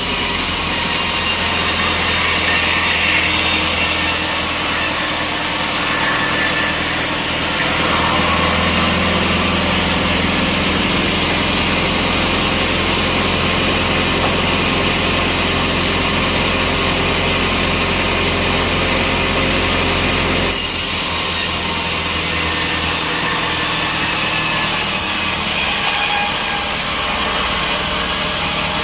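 Sawmill saw cutting through a log, a steady loud cutting noise over the hum of the mill's engine. The sound changes about eight seconds in and again about twenty seconds in.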